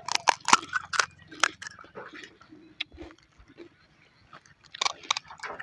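Crisp panipuri shells crunching as they are bitten and chewed, with a run of sharp crackles in the first second and a half, softer chewing after, and another cluster of crunches about five seconds in.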